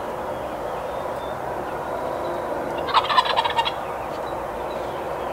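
A wild turkey gobbling once, a short rapid rattling call about three seconds in, over a steady background hiss.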